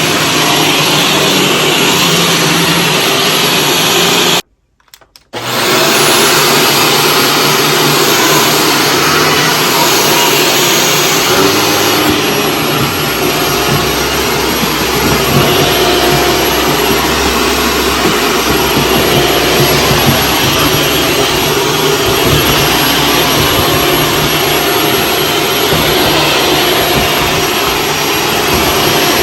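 Shark Stratos vacuum cleaner running with a steady whooshing noise. About four seconds in the sound cuts out suddenly for roughly a second, then comes back.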